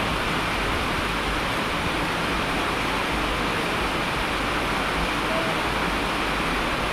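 Steady, even hiss of heavy rain falling, with a low rumble underneath.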